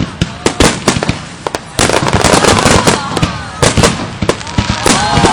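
Fireworks going off: a rapid series of sharp bangs and cracks that thickens into dense, continuous crackling about two seconds in.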